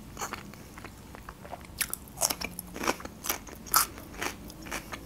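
Close-miked biting and chewing of crisp fresh green onion stalks: quiet small mouth clicks at first, then sharp crunches about two a second from about two seconds in.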